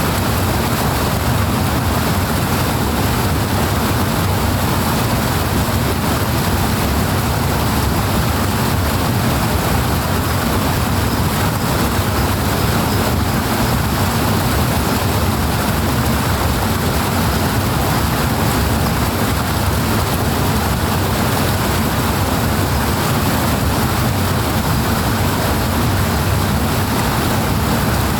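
Powerful water rushing, loud and steady without a break.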